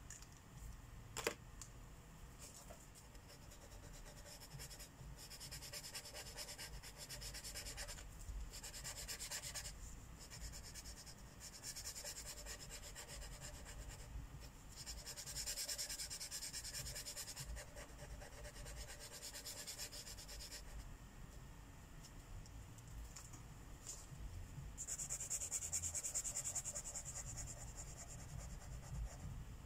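Felt marker tips rubbing and scratching across paper in stretches of quick back-and-forth strokes as areas of a mandala are coloured in, with a single sharp click about a second in.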